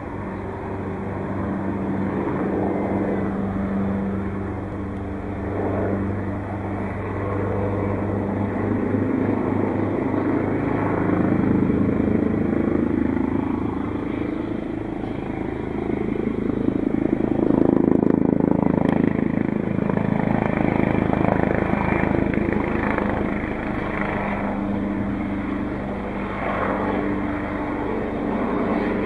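AgustaWestland AW139 helicopter's rotors and turbine engines running in flight: a continuous drone whose pitch and loudness shift slowly.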